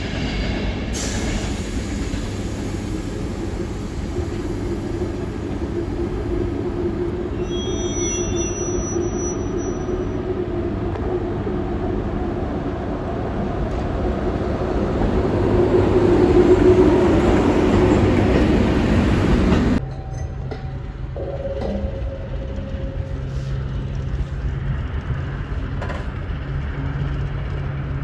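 Railway train noise: a steady rumble with a brief high wheel squeal about a third of the way in, swelling louder before cutting off abruptly. It gives way to a quieter, steady low diesel engine hum from a locomotive.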